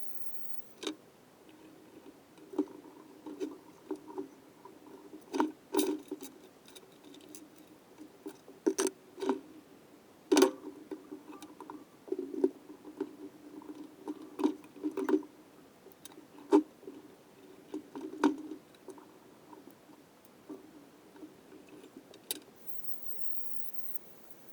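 Irregular metallic clicks, knocks and clinks of small engine parts and hand tools being handled during engine assembly, some with a brief ring, the loudest knock about ten seconds in.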